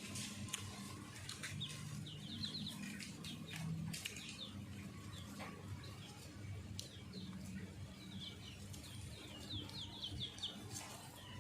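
A small bird chirping in quick runs of short, falling notes, twice, with scattered light clicks between.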